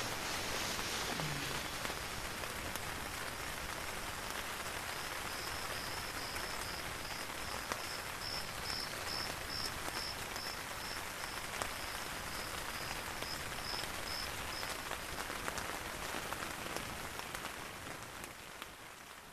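Light drizzle pattering on the tent, heard from inside as a steady hiss with scattered drop ticks. From about five seconds in until about fifteen, an insect or frog gives a high-pitched call, about two pulses a second. The sound fades out near the end.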